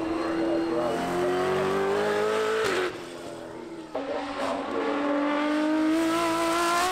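Two supercar engines accelerating hard past, one after the other. The first climbs in pitch and drops at an upshift about two and a half seconds in. After a brief quieter moment, a second car's engine rises steadily in pitch.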